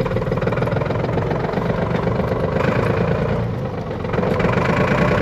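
Small diesel tractor engine idling steadily, getting a little louder about four seconds in.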